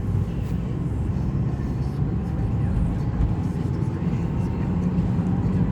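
Steady low rumble of road and wind noise inside a moving car's cabin during a storm.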